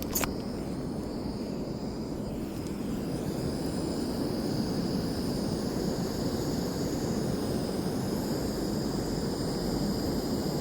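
Camping gas stove burner running with a steady roar, with one short click near the start.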